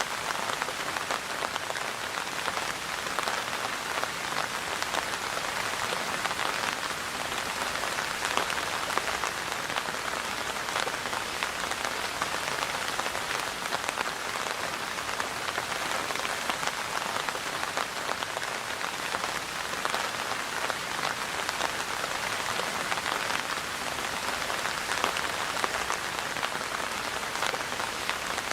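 Steady rain falling on a surface, a continuous patter of many small drop ticks.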